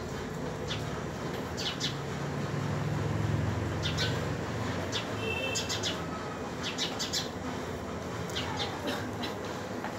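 Small birds chirping in short, scattered calls, with a few brief held high notes about five seconds in, over a low hum that swells and fades in the first half.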